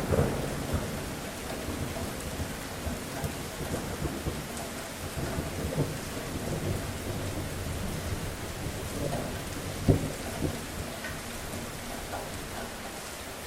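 Steady rain falling, with a low rumble of thunder dying away over the first few seconds. A single sharp knock stands out about ten seconds in.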